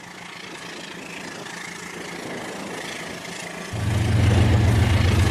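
Rail King remote-control toy train running, a steady rushing noise at first, then a strong steady low hum that comes in suddenly a little before four seconds in.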